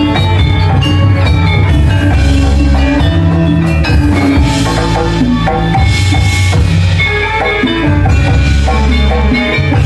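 Balinese gamelan playing loudly for a dance, with bright ringing metal-keyed instruments and drumming over deep sustained gong tones.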